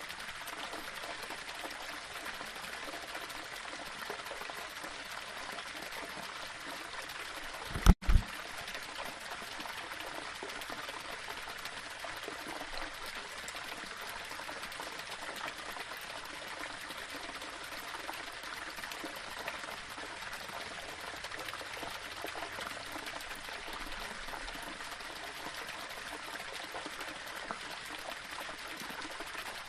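Small waterfall: water running and trickling steadily over rocks. About eight seconds in, two quick low thumps, much louder than the water, break in with a brief dropout.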